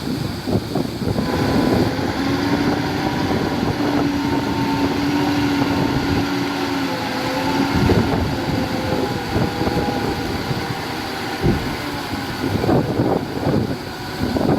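Heavy diesel construction machinery running: a steady engine drone whose pitch sinks slowly, over rattling, with wind noise on the microphone.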